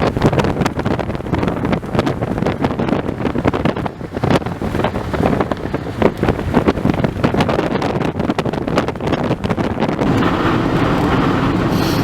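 Gusty wind buffeting the microphone in uneven bursts, over a steady low rumble of vehicle and road noise. It settles into a steadier rushing hiss near the end.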